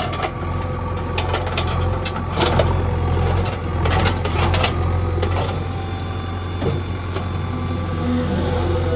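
Backhoe loader's diesel engine running steadily at a low speed, with scattered metallic knocks and rattles from the machine at work.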